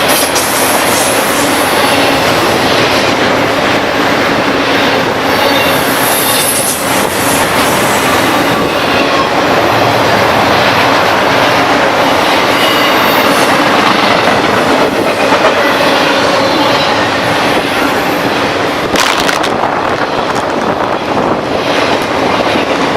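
A train passing close on the mainline: a loud, steady rumble of rail cars on the track, with scattered knocks of wheels over rail joints and faint high wheel squeal at times.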